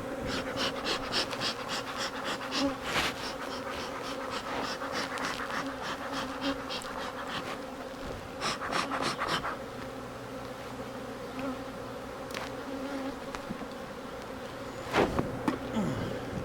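Honeybees buzzing in a steady hum around an opened hive. A bee smoker's bellows is puffed in quick runs of short hissing bursts, about three a second, for the first few seconds and again about halfway through. A loud knock comes near the end.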